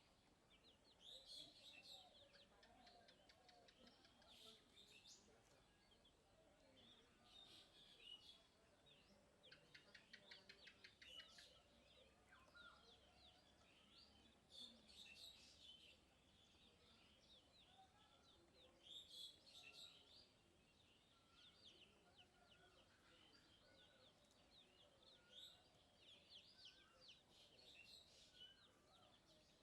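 Small birds chirping and twittering faintly, in repeated clusters of short high chirps, with a rapid trill about ten seconds in.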